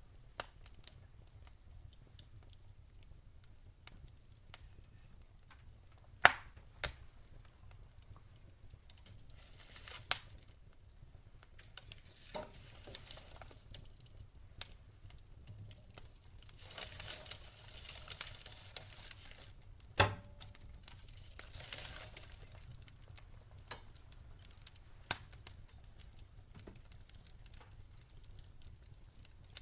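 Campfire crackling: scattered sharp pops and snaps from the burning wood, a few of them loud, with stretches of soft hissing in between.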